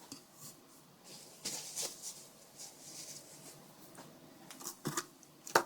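Faint handling noise: a few light clicks and rustles, with a sharper click near the end.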